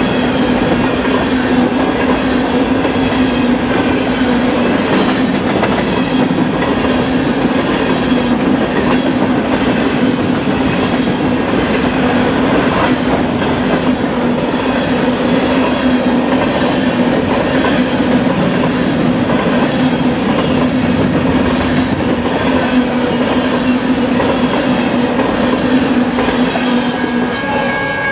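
BNSF covered hopper cars of a grain train rolling past close by: a steady rumble of steel wheels on the rails with clickety-clack and a steady low hum, easing slightly near the end as the last cars go by.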